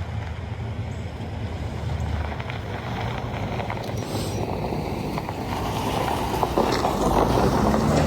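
Vehicle road and tyre noise: a steady rush over a low rumble, growing gradually louder.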